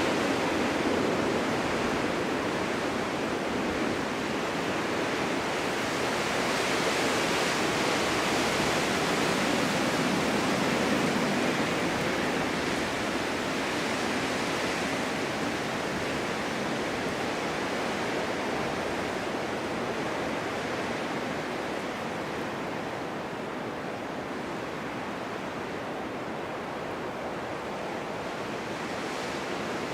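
Steady winter wind blowing through a snowstorm, a continuous rush that swells gently and eases off somewhat in the second half.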